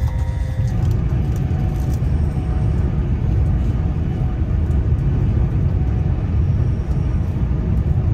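Steady low rumble of a Lumo Class 803 electric train running at speed, heard from inside the passenger carriage.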